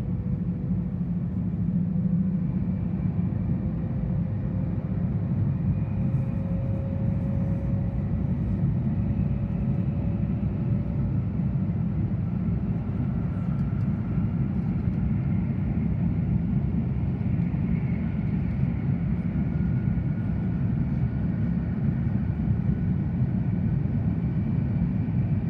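Tohoku Shinkansen train running at speed, heard from inside the passenger car: a steady low rumble with faint whining tones, one of them slowly rising in pitch.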